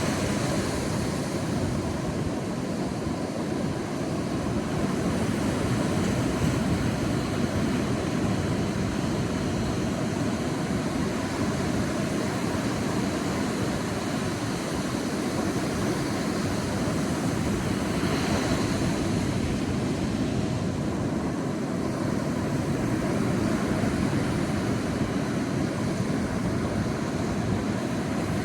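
Sea waves washing onto a beach: a continuous rushing surf that swells and eases slightly in loudness.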